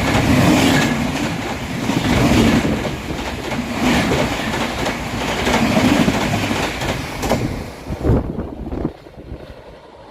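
Indian Railways express passenger train passing close by at high speed, its wheels clattering over the rail joints, the noise swelling about every two seconds as each coach goes by. The last coach passes and the noise drops away sharply about nine seconds in.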